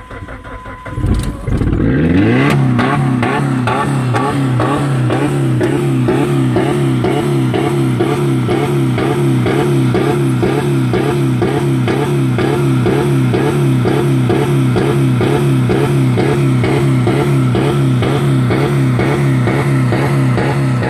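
2000 Dodge Neon's 2.0-litre four-cylinder engine revving up about two seconds in, then held at high revs on the rev limiter with a fast, even pulsing, running with no oil or coolant left in it.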